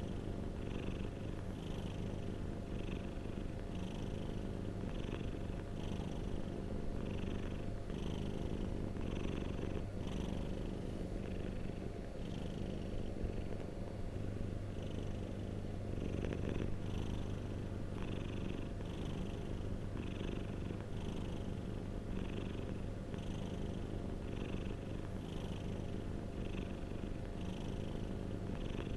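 Domestic cat purring steadily: a continuous low rumble that pulses with each breath in and out, about every three-quarters of a second.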